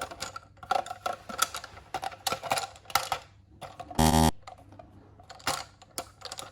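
Scattered light clicks and clacks of plastic toy pieces being handled, with one short, loud buzz about four seconds in.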